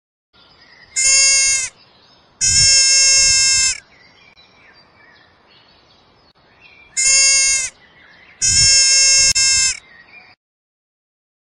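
Four bleating animal calls in two pairs, each pair a short call followed by a longer one, every call held at one steady pitch, with a faint outdoor background between them.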